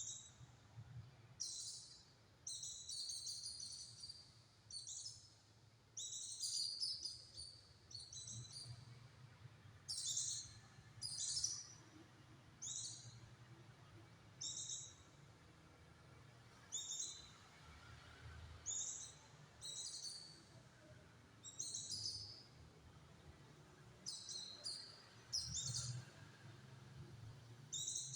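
A pleci (white-eye) singing in short, rapid bursts of high chirping, one burst every second or two. These are the tightly packed song phrases ('tembakan rapat') that keepers use as a master recording to tutor other songbirds.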